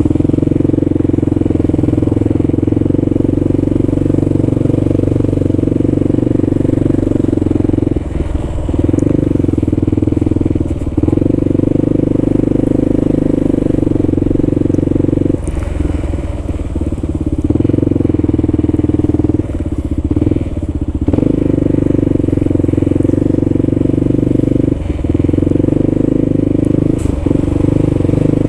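Kawasaki KLR650's single-cylinder four-stroke engine running steadily under way, its note easing off briefly several times as the throttle is let off.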